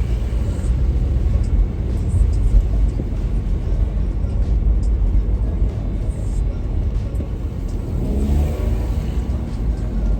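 Steady low rumble of a car on the move, with music playing over it; about eight seconds in, a rising engine note as the vehicle speeds up.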